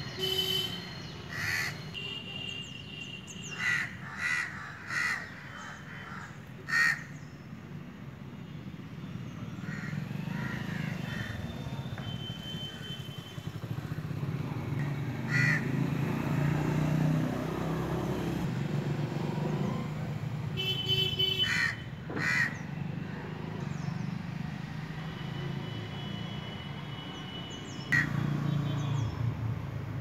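Outdoor ambience: birds giving short calls, several in quick succession near the start and again scattered later on, over a steady low rumble.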